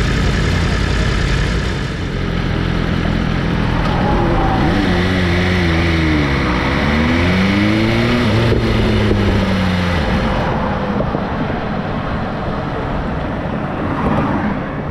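Engine running at a steady idle, then its pitch rises and falls twice between about four and ten seconds in, before settling back.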